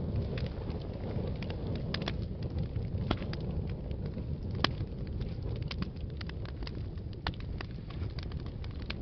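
Wood fire burning in a fireplace: a steady low rumble of the flames with irregular sharp crackles and pops, the loudest pop about four and a half seconds in.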